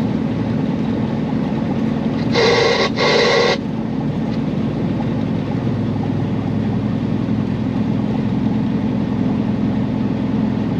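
Steady diesel engine drone and road noise of a Peterbilt semi truck cruising with a load, heard from inside the cab. About two and a half seconds in, two short horn-like tones sound back to back.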